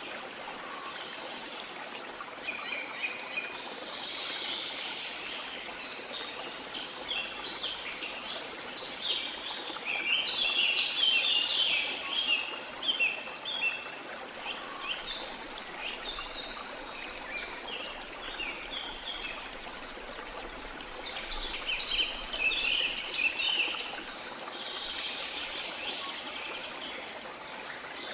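Steady rush of a waterfall, with birds chirping and singing over it in bursts, busiest around a third of the way in and again about three quarters through.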